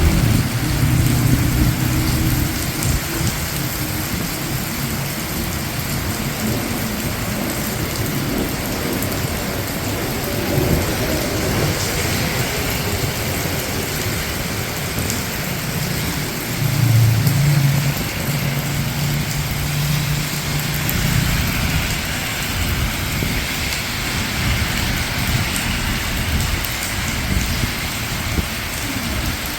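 Steady rain falling on a city street, an even hiss of drops on hard surfaces, with traffic passing on wet road. A low rumble swells near the start and again about 17 seconds in.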